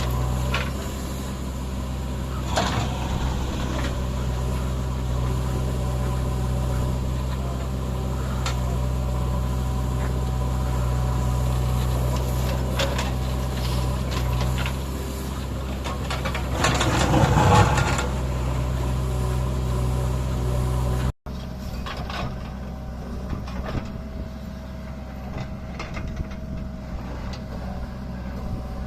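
JCB 3DX backhoe loader's diesel engine running steadily at work, with metal clanks from the bucket and arm and a louder noisy rush about two-thirds of the way through. The sound drops out for an instant, then the engine carries on more quietly.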